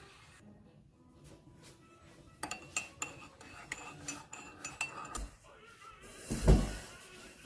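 Cutlery and dishes clinking: a string of light clinks starting about two and a half seconds in, then a louder clatter near the end.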